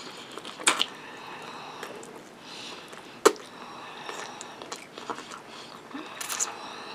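Close-miked eating with the mouth alone: wet chewing and lip smacks, with sharp clicks about two-thirds of a second in and again just past three seconds.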